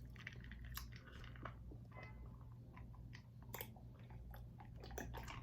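Faint close-up chewing and biting of seafood, with scattered small wet clicks and crunches.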